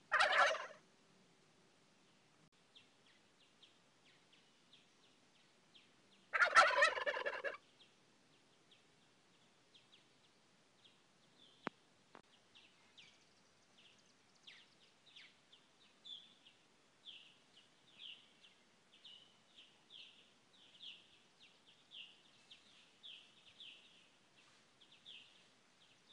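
Wild turkey gobbling twice: a short gobble at the start and a longer, louder one about six seconds in. Faint high chirps repeat about twice a second through the second half.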